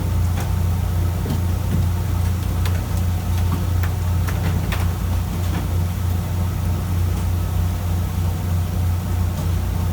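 Fishing boat's engine running with a steady low drone, with a few faint clicks and knocks over it.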